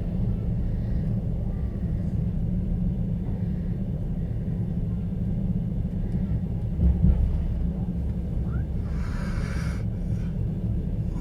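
Steady rumble of a moving passenger train heard from inside an open-plan sleeper carriage, wheels running on the rails, with a heavier knock about seven seconds in and a short hiss about nine seconds in.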